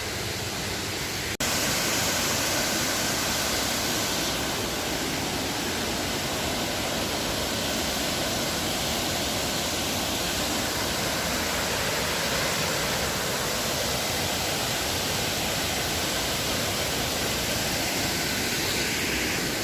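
Steady rush of falling water from a waterfall, with a brief break about a second and a half in, after which it is slightly louder.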